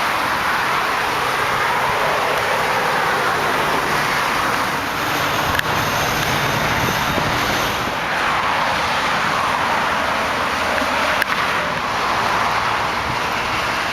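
Highway traffic going by: a steady wash of tyre and road noise that swells and fades as vehicles pass, several times.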